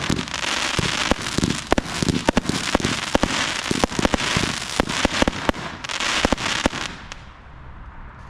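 A 200-shot compound firework barrage cake firing in rapid succession: dense sharp bangs over a continuous crackle, stopping about seven seconds in, after which only a faint fading crackle remains.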